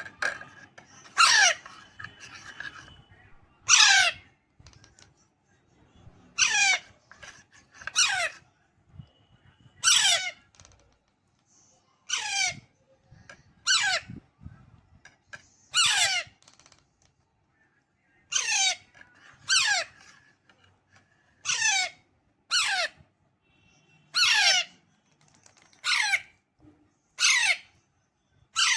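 Alexandrine parakeet chick giving a string of harsh squawking calls, each sliding down in pitch, repeated every one to two seconds: the begging calls of a young parrot at hand-feeding time.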